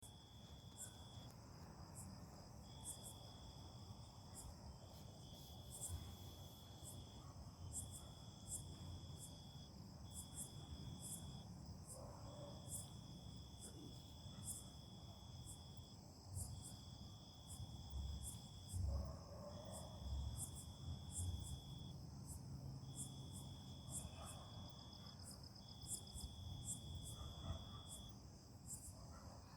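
Night insects trilling. One faint, high, even trill comes in long phrases of a second or two with short breaks, while a second, higher chirp repeats about once or twice a second. A few low thumps stand out around the middle.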